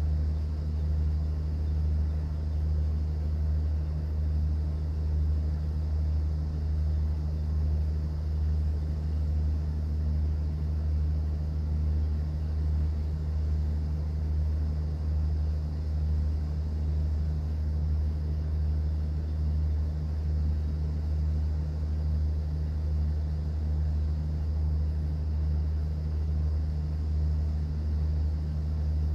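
Cruise boat's engine running on board with a steady low drone, under a faint wash of noise.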